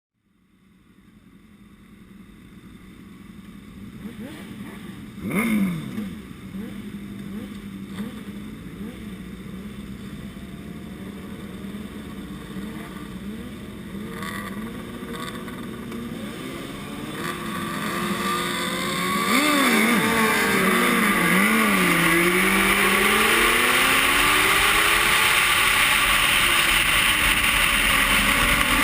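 Racing motorcycle engine at a steady low note, with a loud quick rise and fall in engine pitch about five seconds in. From about eighteen seconds it revs up hard through the gears, pitch climbing and dropping at each shift, with wind rush building as it gains speed.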